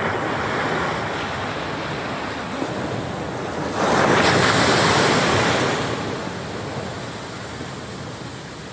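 Ocean surf washing onto the beach, with one louder wave breaking about four seconds in and fading away over the next two seconds.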